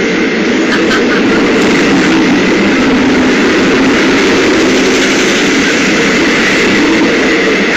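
Jabodetabek electric commuter trains running close alongside each other: a loud, steady rumble with no breaks.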